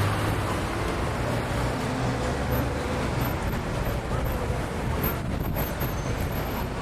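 Steady city traffic noise: motor vehicles running with a low rumble.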